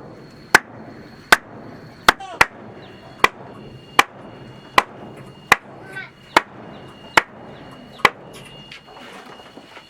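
A tool striking wood in steady, even blows, about one every 0.8 seconds, eleven in all, stopping about eight seconds in.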